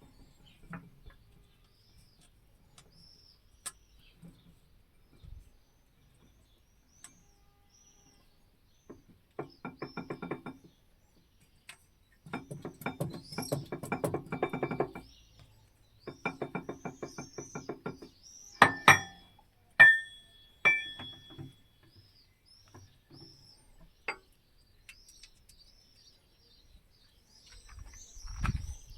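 Birds chirping, with three bouts of fast, even rattling in the middle, followed by a few sharp knocks that ring on afterwards, the loudest sounds.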